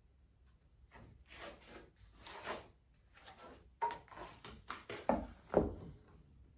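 Wooden strips being worked and handled on a workbench: a few rubbing strokes, then several sharp wooden knocks as pieces are set down and squared up.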